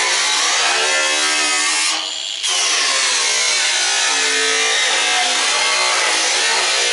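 Power tool cutting through the sheet metal and frame of an old tanning bed, a steady loud grinding-sawing noise whose pitch wanders with the load. It lets off briefly about two seconds in, then bites back in.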